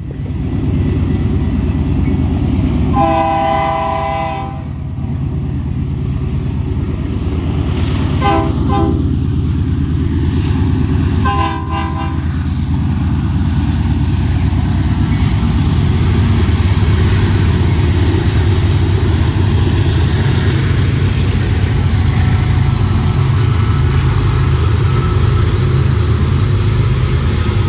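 A BNSF diesel freight train led by an EMD GP60M locomotive rumbles past as its multi-chime air horn sounds for a grade crossing: one long blast, then two shorter ones. The locomotive engines and rolling cars then keep up a steady, heavy rumble.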